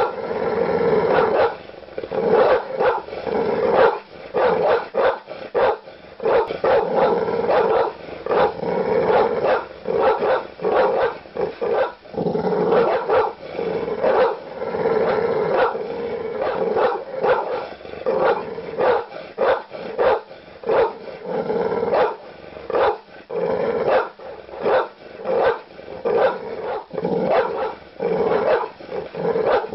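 Large dog barking aggressively and without pause, deep loud barks following each other about two to three times a second.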